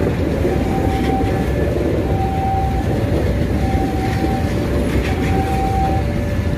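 Passenger train rolling past close by: a steady low rumble with wheel clacks over the rail joints. Over it a level-crossing alarm repeats a two-note electronic tone, one note held for under a second, about every second and a half.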